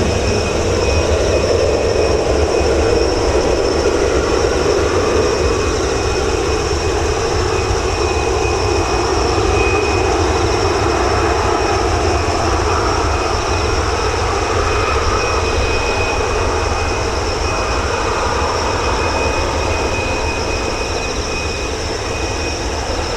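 Boeing 737-800's CFM56 turbofan engines running steadily: a constant rumble with a thin, high whine over it, easing a little near the end.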